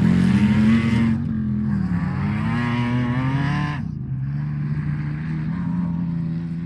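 Off-road race vehicle engine running hard, its pitch rising and falling with the throttle, and growing fainter toward the end.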